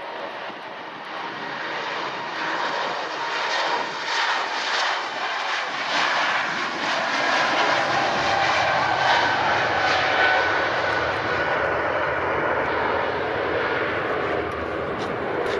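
Airliner engines passing, growing louder through the first half and then holding, with a faint whine that falls in pitch as the aircraft goes by.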